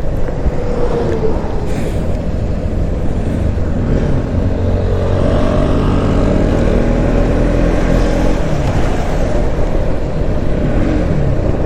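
Bajaj Pulsar NS motorcycle engine running under way, with wind and road noise. The engine note shifts up and down in pitch a few times as the throttle changes in traffic.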